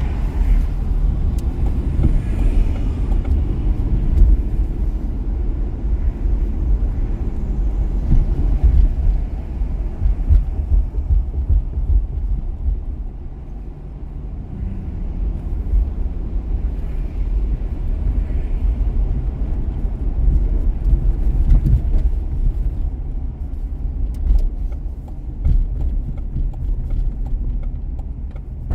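Car driving on city streets: a steady low rumble of engine and tyre noise that eases off briefly about halfway through.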